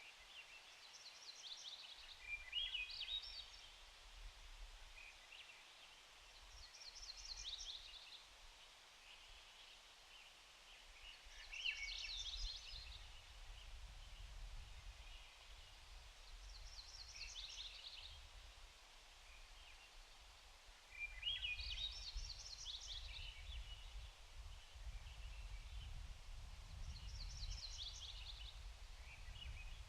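A small songbird singing the same short phrase of quick, high trilled notes about every five seconds, over a faint low rumble.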